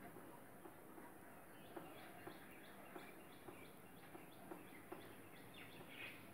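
Faint, repeated short chirps of a bird, about three a second, starting about a second and a half in over quiet room hiss.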